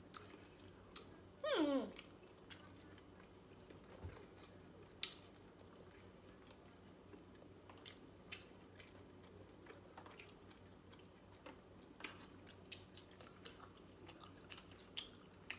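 Chewing and biting on crisp corn taco shells, with scattered small crunches and mouth clicks. About a second and a half in, a brief voice sound slides down in pitch.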